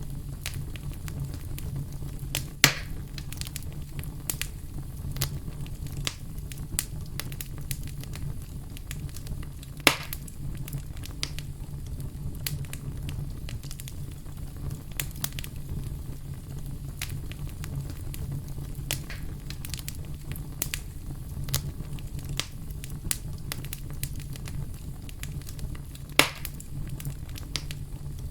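Wood fire crackling in a fireplace: a steady low rumble of flames under many scattered small crackles, with three louder, sharper pops, one a few seconds in, one about a third of the way through and one near the end.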